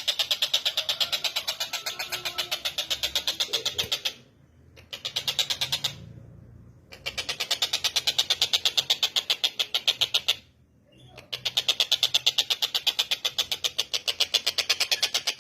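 Tengkek buto kingfisher calling: long runs of fast, harsh, evenly repeated notes, about six a second, broken by three short pauses.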